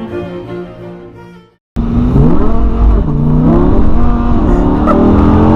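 Orchestral string music fades out, then about a second and a half in a Lamborghini Huracán's V10 engine cuts in loud, revving hard with its pitch climbing and dropping several times.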